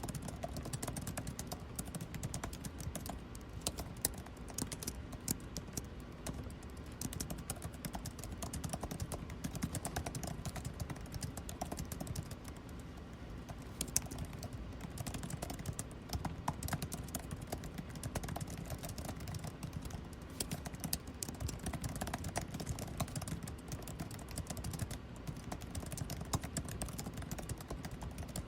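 Typing on a computer keyboard, a fast uneven run of key clicks with a short pause about halfway through, over a steady low hum of air conditioning.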